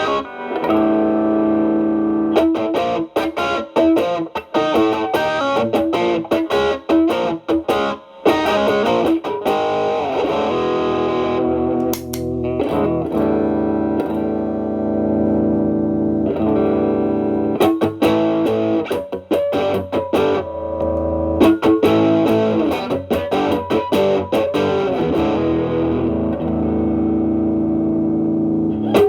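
Stratocaster electric guitar through an Xotic BB Plus preamp, channel A boost stacked into channel B drive, into a Marshall Valvestate amp: distorted playing of held notes and picked phrases with brief pauses between them.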